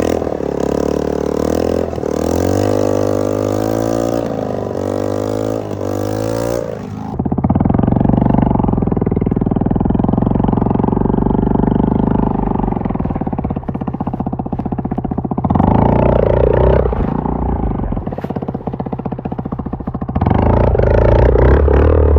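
Suzuki DR-Z70 pit bike's small single-cylinder four-stroke engine running and being revved up and down over and over, then settling into a steady run with a few more throttle blips later.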